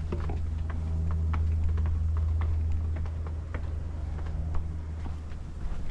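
Footsteps on a paved path, heard as light irregular taps, over a steady low hum.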